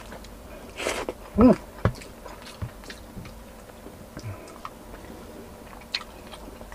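A person chewing soft, saucy stewed chicken and rice, with wet mouth clicks and lip smacks. A brief vocal sound about a second and a half in is the loudest moment.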